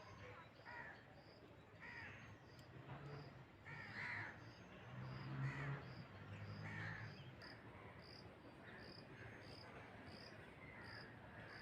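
Birds calling: harsh calls come every second or so, over an even high chirp repeating about three times a second. A faint low rumble rises and falls in the middle.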